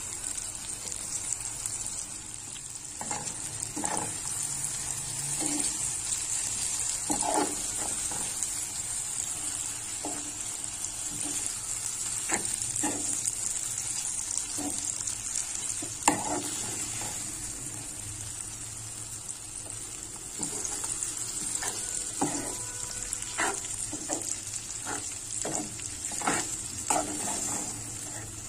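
Okra and onion-tomato masala sizzling in a hot metal pan, with a steady frying hiss, while a spatula stirs and scrapes against the pan in scattered clinks; one sharper knock comes about halfway.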